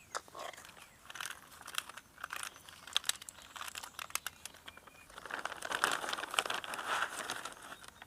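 Whole in-shell peanuts being poured and dropped by hand into a bird feeder: a run of light clicks and rattles, with a longer stretch of rustling about five to seven and a half seconds in.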